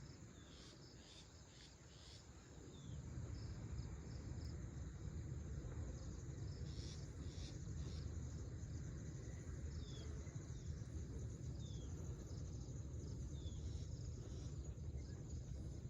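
Outdoor chorus of birds and insects: many short high chirps, with a short falling chirp every couple of seconds. Under it runs a low steady rumble that grows louder about three seconds in.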